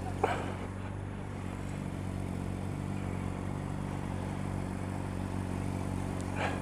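Motorcycle engine idling steadily, with one short click about a quarter of a second in.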